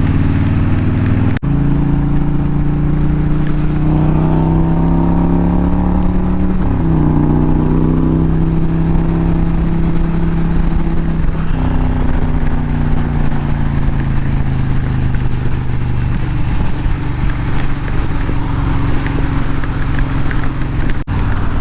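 Indian Challenger's PowerPlus 108 V-twin engine running under way, rising in pitch as it accelerates, with two upshifts about seven and eleven seconds in. A steady rush of wind and heavy rain lies under it.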